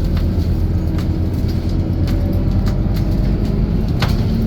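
Scania K230UB city bus's diesel engine running steadily under way, a low drone, with scattered clicks and rattles.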